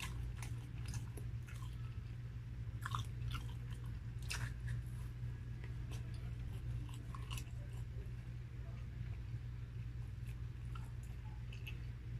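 A person chewing food with the mouth open, with scattered wet smacks and clicks that are loudest about 3 and 4.5 seconds in, over a steady low hum.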